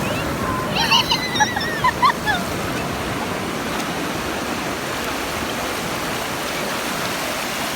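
Steady wash of ocean surf on a beach. A few short, high-pitched calls with bending pitch come about a second in.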